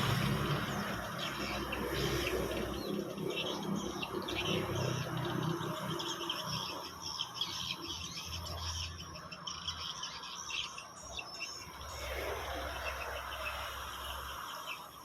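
Swiftlets twittering in many quick, high chirps, over a low steady hum.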